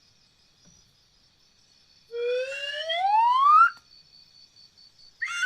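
A bird imitating a siren: a whistled wail that climbs steadily for about a second and a half, breaks off, then starts a falling wail near the end.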